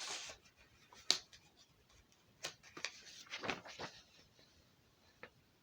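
Faint scattered clicks and a few short soft rustles, gathered in the first four seconds, then quiet room tone.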